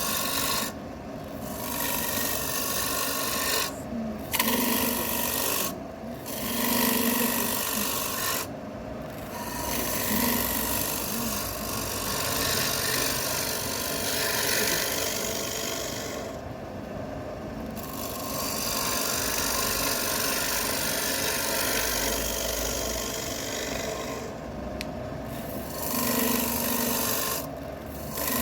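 Wood lathe running while a tool scrapes against the spinning wooden bowl blank, a steady rasping hiss. The scraping stops briefly about seven times.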